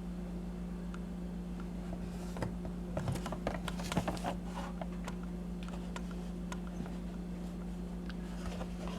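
Light clicks and taps from handling a boxed toy vehicle set, clustered in the middle, over a steady low hum.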